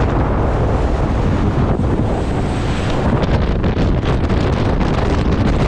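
Gale-force wind buffeting the camera microphone: a loud, steady rumble with no let-up.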